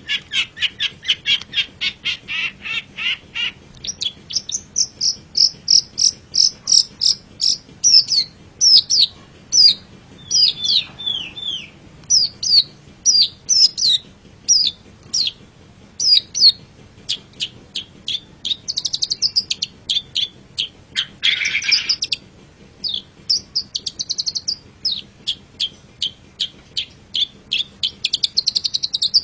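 Long-tailed shrike (cendet) singing: a fast run of short sharp chips, then a string of quick down-slurred whistled notes, with a harsh scratchy call about 21 seconds in before the rapid chips return.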